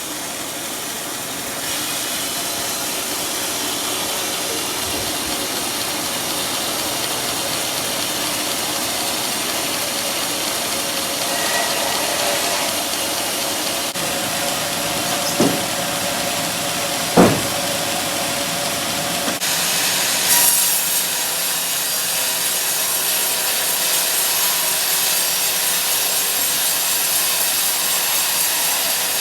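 Sawmill saw cutting through a teak log, a steady rasping hiss with two short knocks about halfway through; the cut gets brighter and a little louder about two-thirds of the way in.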